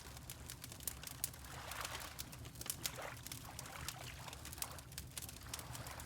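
Fireplace crackling with frequent sharp pops over a steady low rumble, mixed with water lapping in soft swishes every second or so.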